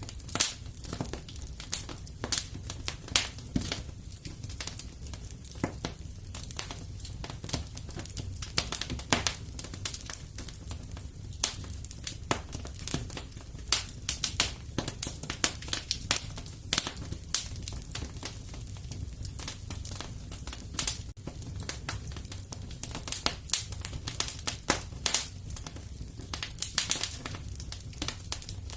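Wood fire crackling in a fireplace: a steady low rumble of flames with frequent irregular pops and snaps.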